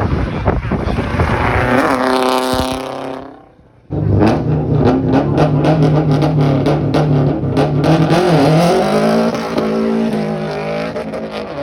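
Car engines running loudly at a car show, one revving. The sound drops out about three and a half seconds in and comes back abruptly with a steady, lumpy running note that rises in pitch for a moment after the middle.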